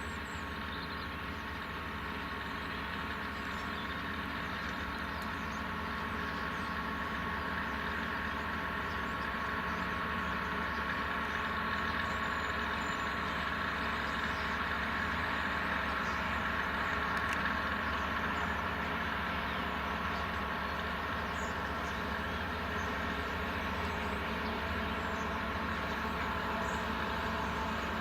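Class 66 diesel locomotive's EMD two-stroke V12 engine running steadily under load on a loaded coal train, slowly growing louder. The uploader says the engine is not sounding too good.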